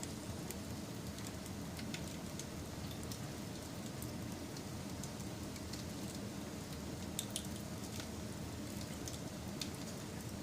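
Wood fire crackling: a steady low rumble of burning with scattered sharp pops and snaps, a few to the second.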